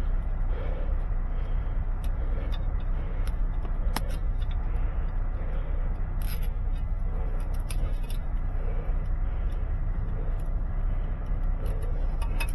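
Steady low rumble of a vehicle on the move, heard from inside the cab, with a couple of light clicks or rattles.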